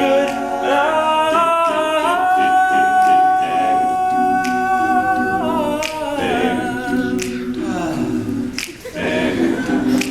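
Male a cappella group singing in close harmony, holding one long chord for several seconds before the backing voices move on. Sharp finger snaps keep time near the end.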